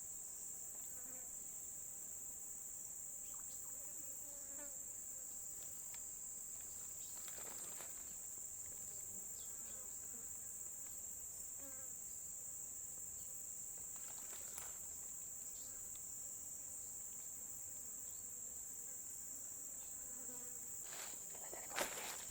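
Insects, crickets or cicada-like, trilling steadily in one high-pitched band, an unbroken outdoor drone.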